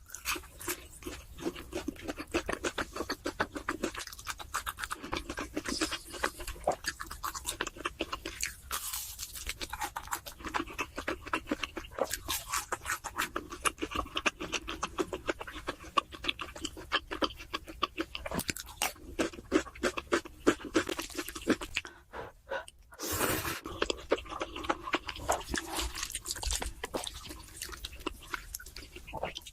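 A person chewing and crunching food with dense, irregular crackles, the eating sounds of fried chicken and spicy noodles. A short louder rush of noise comes about three-quarters of the way through.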